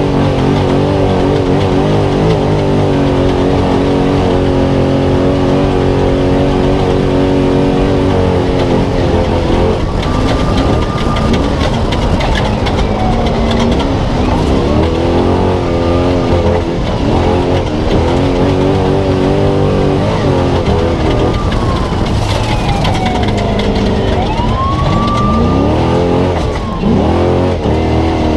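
Spec Trophy Truck's engine heard from inside the cab at race speed. It holds steady revs for about ten seconds, then revs rise and fall over and over through the rest of the stretch, over constant rattle and road noise.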